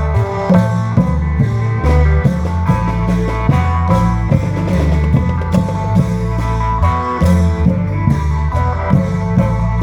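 Amplified Isan folk music from a klong yao long-drum band: a plucked-string melody over a steady drum beat and a heavy bass line.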